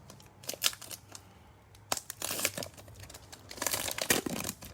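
Plastic wrapper of a baseball trading card pack being torn open and crinkled by hand, in three rustling bursts.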